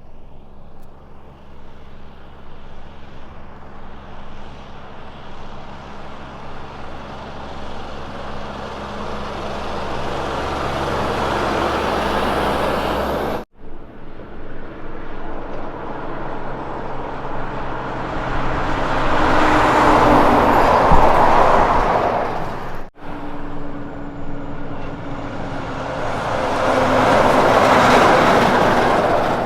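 Kenworth K200 road trains driving past, each with its diesel engine pulling and tyre and road noise swelling as it comes near. Three such passes, the first two cut off suddenly; the loudest is about two-thirds of the way through.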